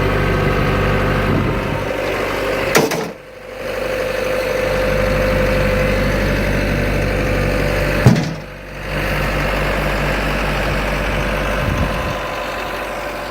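Cat RT80 telehandler's engine idling steadily. Two sharp knocks come about three and eight seconds in, each followed by a brief dip in the sound.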